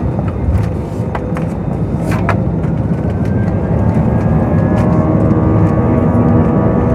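Airliner jet engines running as a heavy low rumble, with a few sharp rattling clicks in the first couple of seconds. From about three seconds in, a whine slowly rises in pitch and the sound grows louder as the engines spool up for takeoff.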